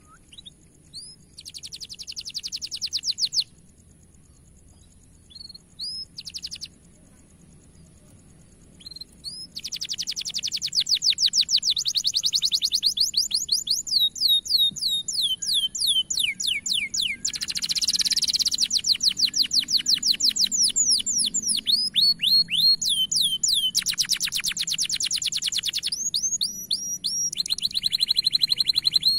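Domestic canary singing: rapid trills of quickly repeated downward-sweeping whistled notes. Short bursts come in the first third, then a long unbroken run of changing rolls follows.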